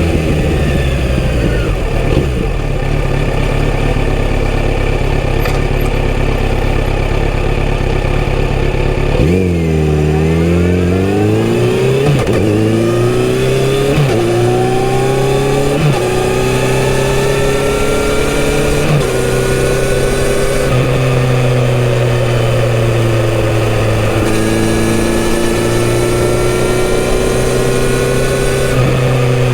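Kawasaki Z900RS inline-four on its stock full exhaust system, running low and steady for about nine seconds. It then revs up and accelerates away, climbing through the gears with several upshifts before settling into a steady cruising note.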